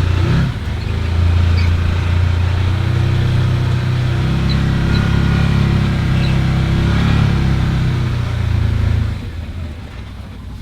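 A vehicle engine running loud and close, its pitch stepping up slightly about four seconds in, then dropping back sharply to a quieter idle about nine seconds in.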